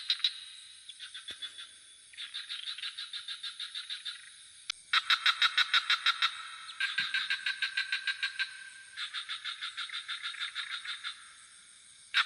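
Frogs calling in rapid pulsed trills, one bout after another, each about two seconds long at roughly seven pulses a second, with a steady high-pitched insect drone underneath.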